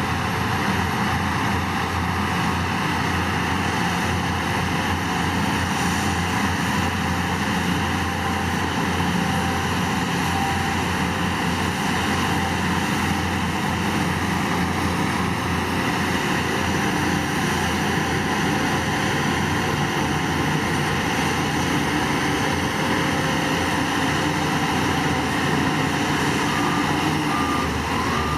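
Diesel engine of heavy earthmoving machinery running steadily under work.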